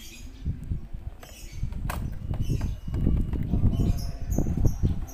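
Irregular low rumble that grows louder about three seconds in, with short high chirps of songbirds scattered over it.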